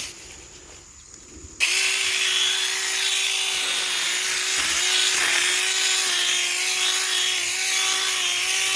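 Small cordless electric mini chainsaw starting up about a second and a half in and running steadily with a high motor whine and chain noise. Its pitch dips slightly now and then. A short click comes at the very start.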